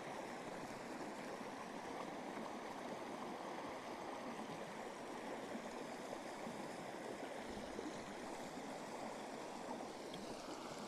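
Steady, even rush of running water, as from a stream.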